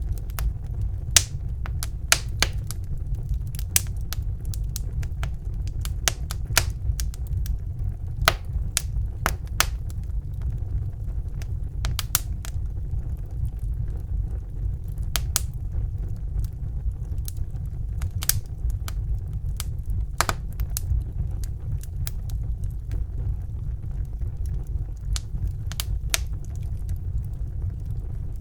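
Wood fire burning in a fireplace: a steady low rumble of the flames with sharp, irregular crackles and pops, some clustered, others spaced a second or more apart.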